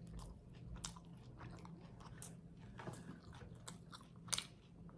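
Close-miked chewing of a mouthful of spaghetti and crunchy garlic bread: faint wet mouth clicks and small crunches, with one sharper crunch about four seconds in.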